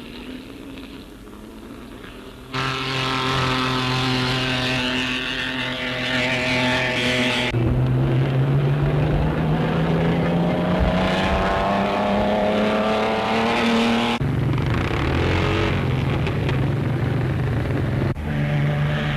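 1935 Grand Prix racing car engines on an old newsreel soundtrack. The sound is faint at first, then loud engine notes come in, one rising steadily in pitch as a car accelerates. The sound changes abruptly twice where the film is cut.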